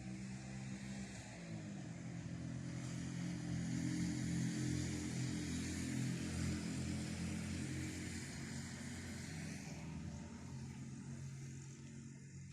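A motor vehicle driving past: its engine hum and tyre noise grow louder over about four seconds, then slowly fade away.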